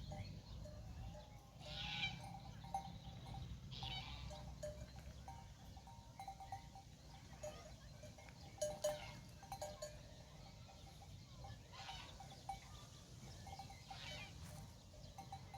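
A grazing flock with small animal bells clinking on and off, and a few short bleats.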